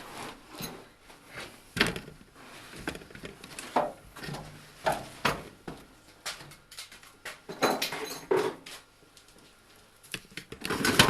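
Irregular knocks and metallic clinks of hand tools and metal parts being handled, some with a short ring, with a louder cluster of knocks near the end.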